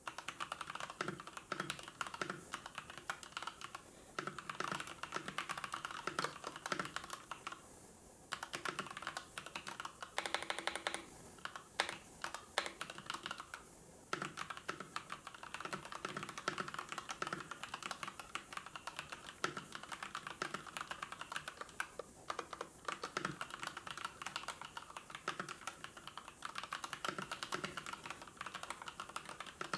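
Typing on a computer keyboard in quick runs of key clicks, broken by short pauses. A brief, different steady sound comes in about ten seconds in.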